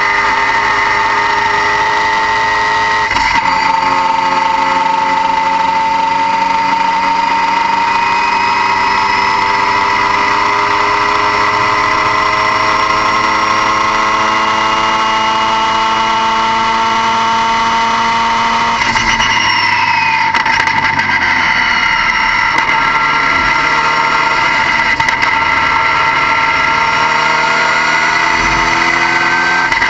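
Car engine running steadily under load. Its pitch climbs slowly for many seconds as the car gathers speed, then breaks and drops back twice, about 3 seconds in and again about 19 seconds in, as at gear changes.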